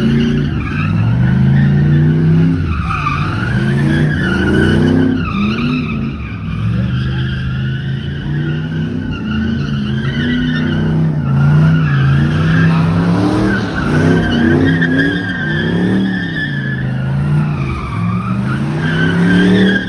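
A car spinning its tyres at a street takeover, with the tyres squealing continuously. The engine revs up and down in repeated swells every few seconds.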